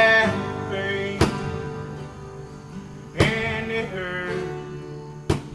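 Acoustic guitar strummed three times, about two seconds apart, each chord left to ring and fade as the song ends; a sung note trails off at the very start.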